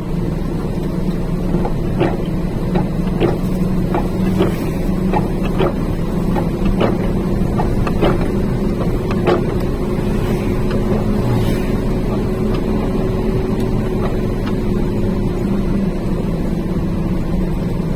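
Truck engine running steadily, heard from inside the cab as a low drone. Scattered sharp clicks sound over the first half.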